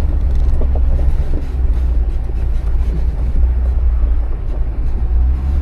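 Jeep engine running low and steady as it crawls over rocks in four-low, a deep steady rumble.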